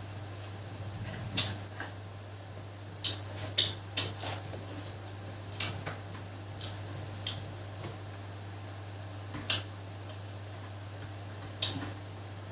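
Irregular sharp clicks and light knocks, about a dozen, bunched together around three to four seconds in, over a steady low hum.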